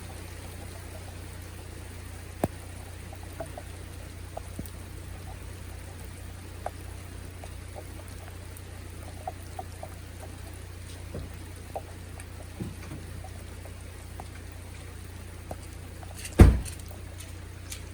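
Steady rain falling and dripping, with scattered faint ticks of drops. A single loud thump about sixteen seconds in.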